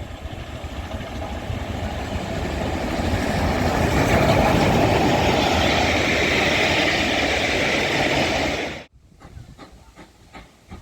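Steam train hauled by GWR 2-6-2 tank locomotive 4555 Warrior running into the station, growing louder over the first four seconds and then steady. The sound cuts off abruptly about nine seconds in.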